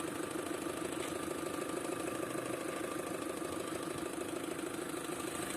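Opel Astra petrol engine idling with a rapid, even knock from the intake manifold area. The mechanics diagnosed it as the intake manifold flap knocking.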